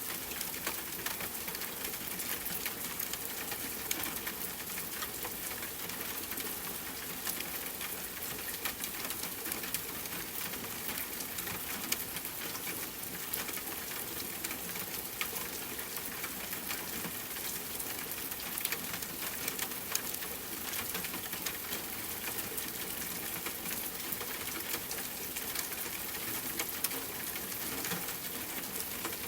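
Steady rain pattering on a tent, mixed with a campfire crackling: a constant hiss dotted with many small clicks and pops.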